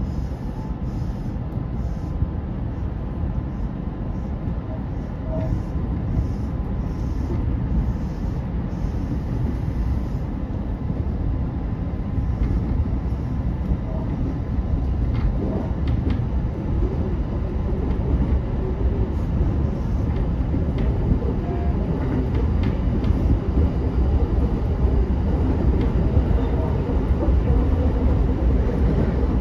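Running noise of a JR West 227 series 'Urara' electric train heard from the driver's cab: a steady rumble of wheels on rail that grows slightly louder as the train gathers speed.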